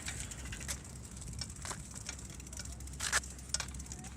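Low, steady wind rumble on the microphone, with a handful of short sharp clicks and rattles scattered through it, the strongest about three seconds in.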